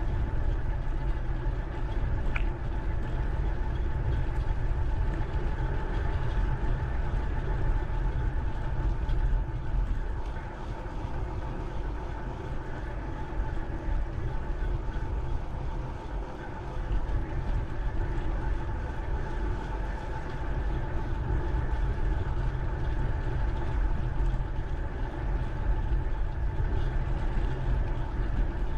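Steady riding noise from a bike ride, with wind rumbling on the action camera's microphone and a faint steady whine running underneath.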